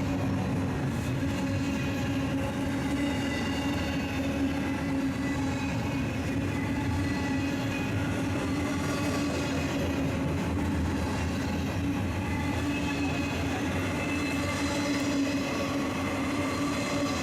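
BNSF freight train rolling past, a steady drone with a continuous low hum.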